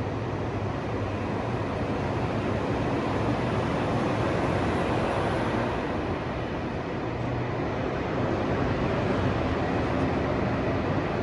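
KTX high-speed train running along the tracks: a steady rushing rail noise with no clear tones, swelling gently a couple of times.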